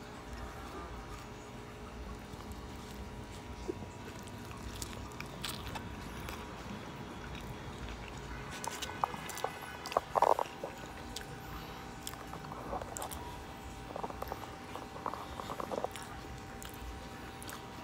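A person biting into a burrito and chewing, with short crunchy and wet mouth sounds, loudest about ten seconds in, then more chewing sounds a few seconds later.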